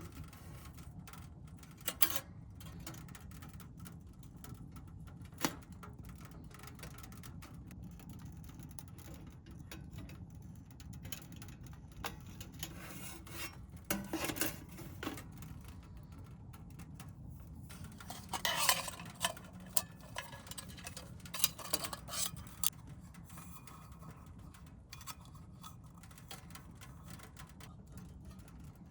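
Scattered clinks and knocks of metal cooking utensils against cookware, with a busier cluster of clinks about two-thirds of the way through, over a steady low background hum.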